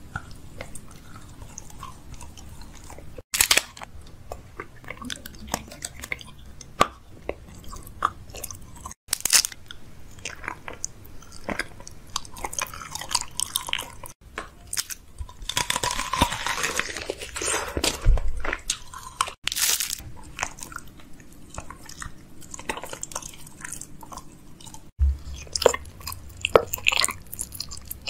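A person chewing and crunching food with open-mouthed mouth sounds. It comes in short stretches that break off abruptly about every five seconds, with the densest crunching about halfway through.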